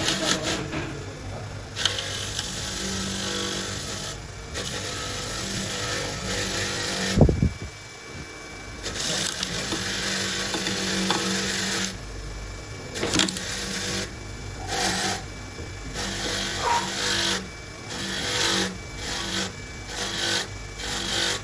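Workshop tool noise: a steady machine hum, one sharp thump about seven seconds in, then repeated harsh scraping bursts that start and stop.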